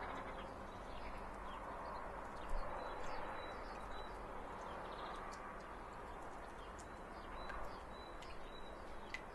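Faint background ambience with small birds chirping now and then.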